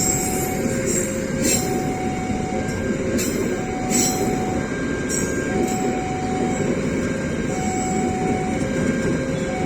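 A train passing over a level crossing, with a steady rumble and a few sharp clacks. The crossing's warning alarm sounds a repeating two-tone chime, a higher tone then a lower one, each held about a second.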